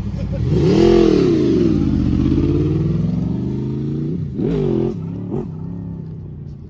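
Honda VFR800's V4 engine revving: the pitch climbs and falls back about a second in, holds, then rises and drops sharply again about four and a half seconds in with a short blip after. It grows quieter near the end.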